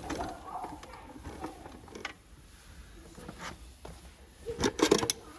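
Scattered sharp knocks and clicks, then a quick cluster of louder knocks near the end.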